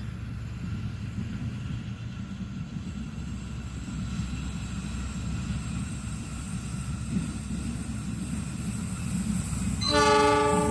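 A train approaching, its low rumble slowly growing louder; about ten seconds in the locomotive's horn sounds a held, multi-tone blast.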